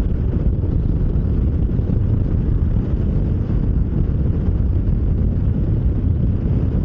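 Motorcycle engine running steadily while riding at an even speed, with road and wind noise.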